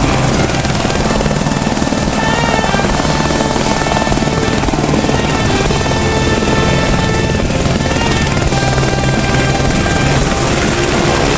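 Helicopter rotor chop, a fast steady pulsing, under background music.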